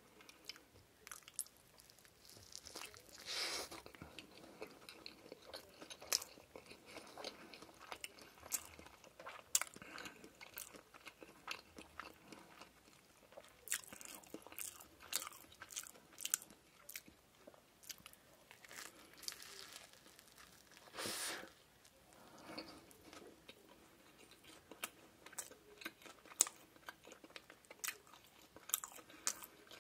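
Close-miked chewing of a fried shrimp burger: many small crunches and wet mouth clicks from the breaded patty and bun. Two longer, louder hissy sounds come a few seconds in and again about two-thirds through.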